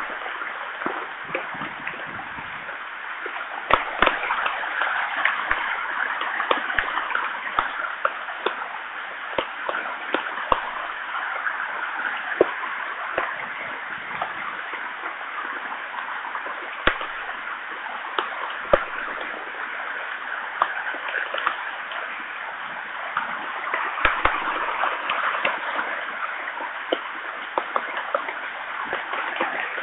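Heavy rain: a steady hiss with frequent sharp taps of single drops landing close by.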